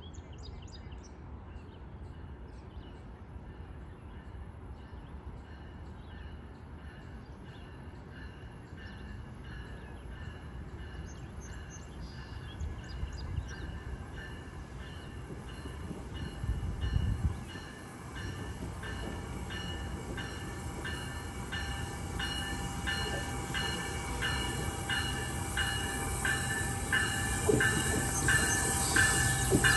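GO Transit commuter train approaching, growing steadily louder throughout as it draws near.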